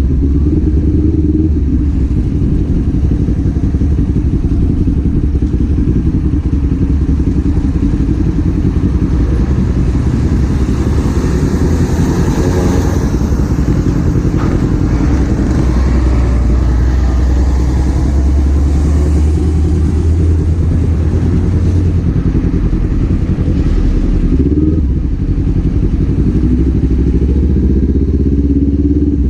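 Kawasaki Z400's 399 cc parallel-twin engine and exhaust running steadily while the bike is ridden, heard from on board. There is a rise of hiss about halfway through, and the engine pitch glides near the start and again near the end as the revs change.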